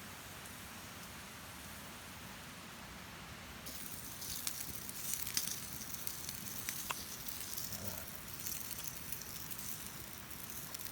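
A faint steady hiss, then from about four seconds in a wood campfire crackling, with sharp snaps and pops scattered through it.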